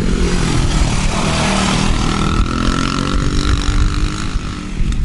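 Dirt bike engine running and revving; its pitch rises and falls for a couple of seconds in the middle.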